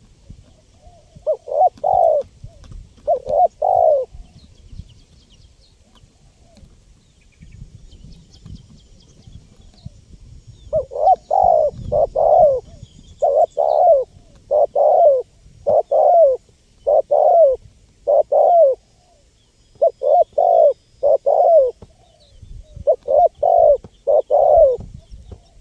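Spotted dove (tekukur) cooing: two short phrases of rolling coos, then after a pause of several seconds a long run of repeated coo phrases at an even pace. Faint high chirps of other small birds lie underneath.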